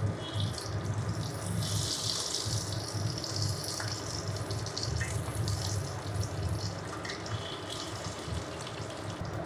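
Hard-boiled eggs sizzling in hot mustard oil in a kadai, a steady frying hiss that grows brighter for a moment about two seconds in. A few faint clicks of a steel spoon against the pan as the eggs are turned.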